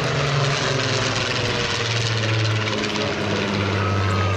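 Rolls-Royce Merlin and Griffon V12 piston engines of a Spitfire and a Seafire in a flying display, a loud, smooth engine note that shifts up and down in pitch as the aircraft manoeuvre past; running sweetly.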